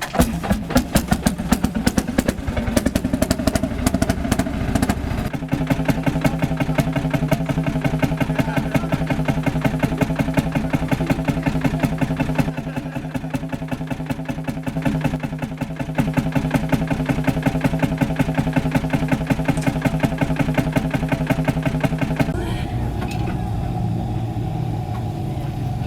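Ursus C-451 tractor's single-cylinder two-stroke engine running with a fast, even firing beat that changes pace several times, settling into a smoother, steadier note near the end.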